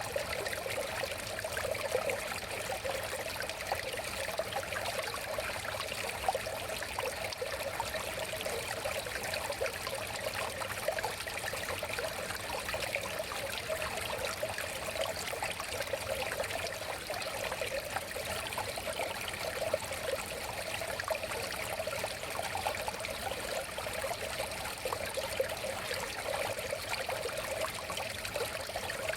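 River water flowing over stones: a steady babbling rush with fine trickling detail, unchanging throughout.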